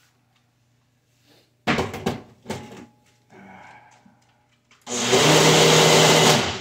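Ninja blender motor running in a short burst of about a second and a half near the end, churning a thick mix of feed pellets and water that sticks at the bottom of the jar. Before it, a few knocks and clatter from handling the blender jar.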